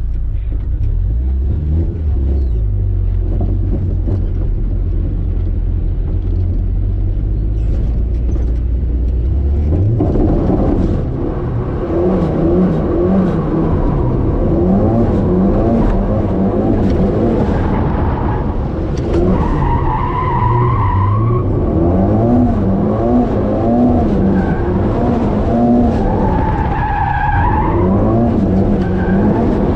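Drift car being driven sideways: a steady low rumble for about the first ten seconds, then the engine revving up and down repeatedly with tires squealing, loudest around twenty seconds in and again near the end.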